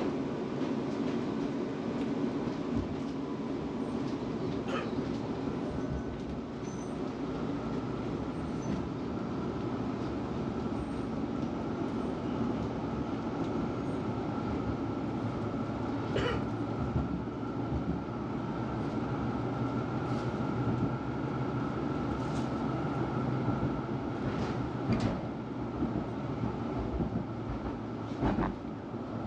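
Melbourne tram in motion, heard from on board: the steady rumble of the running gear on the rails, with a few sharp clicks and knocks. A steady high whine joins about halfway through.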